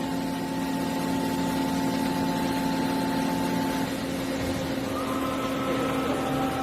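HNK HB-130 CNC horizontal boring mill running with a steady hum, its axes being jogged under push-button control. One drive whine stops about four seconds in, and a higher whine starts about a second later.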